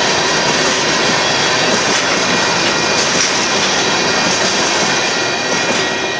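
Covered hopper cars of a freight train rolling past, a steady rumble and hiss of steel wheels on the rails, easing off near the end as the last car clears the crossing.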